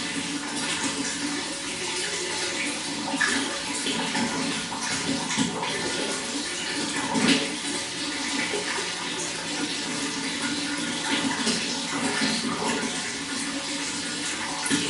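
Water running steadily, with small irregular splashes.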